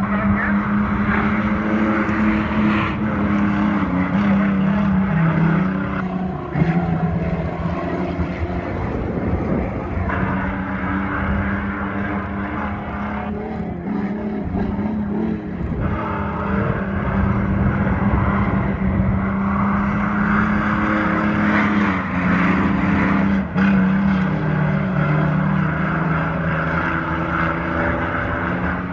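Mini truck engines running hard in a race, droning steadily. The pitch drops and climbs again several times as the trucks lift off and get back on the throttle.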